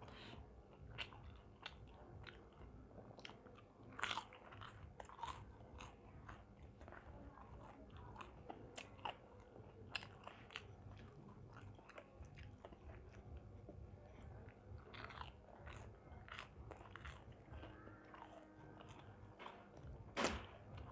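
Faint, close-miked crunching and chewing of crumb-coated deep-fried kurkure momos, with crisp crunches scattered throughout and stronger ones about 4, 10 and 15 seconds in, and a loud smack of fingers being licked near the end. A steady low rumble of background noise runs underneath.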